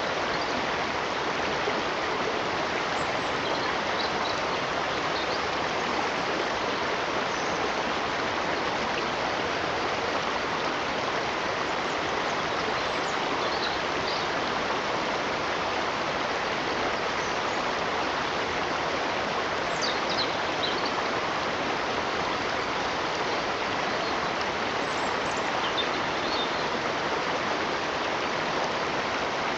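Running stream water, a steady even rush, with faint short high chirps now and then.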